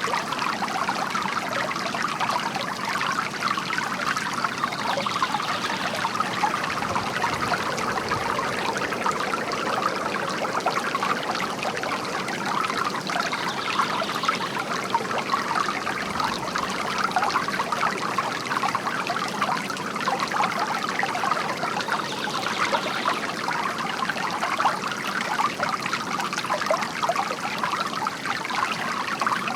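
Water from a bamboo garden fountain trickling and splashing steadily.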